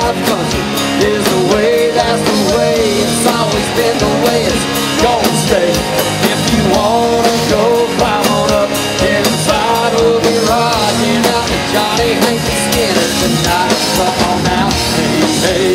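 Live rock band playing, with guitar and drums driving a steady beat and a wavering melody line on top.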